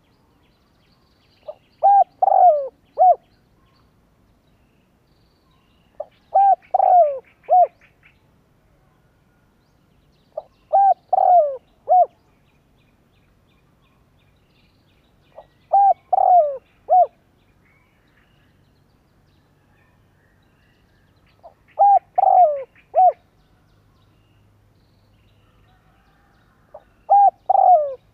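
Spotted dove cooing: a male's territorial call, used to lure wild doves. It gives a short phrase of four or five low notes about every five seconds, six times, with the last phrase running past the end.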